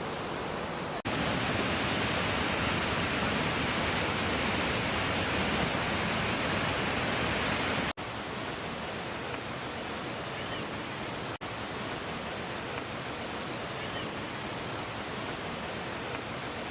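Waterfall: a steady rush of falling water, in several short clips cut together. It is louder from about a second in until about eight seconds, then somewhat quieter.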